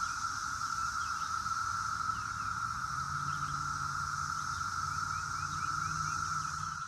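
Massed chorus of Brood X periodical cicadas: a steady, unbroken humming drone.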